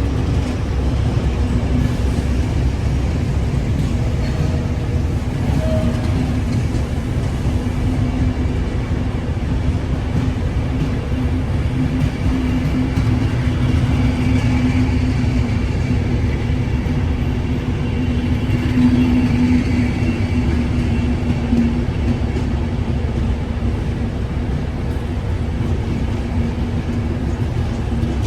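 Train running on the rails: a continuous low rumble with a steady hum that weakens about two-thirds of the way through.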